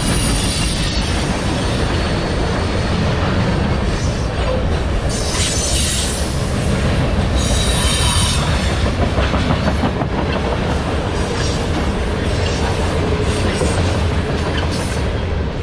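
Freight train rolling past close by: a steady heavy rumble of cars and wheels on the rails, with high-pitched wheel squeal rising out of it about five seconds in and again about eight seconds in.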